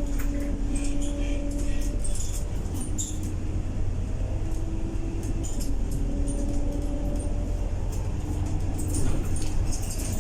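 Scania K230UB city bus with a ZF 6HP504C automatic gearbox running, heard from inside: a steady low drone with a whine that shifts pitch a few times, over light rattles and clicks from the body.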